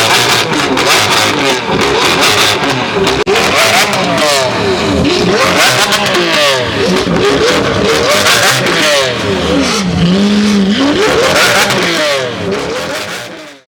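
Car engine revved hard again and again, its pitch climbing and dropping repeatedly, settling briefly on a low steady note about ten seconds in, then fading away near the end.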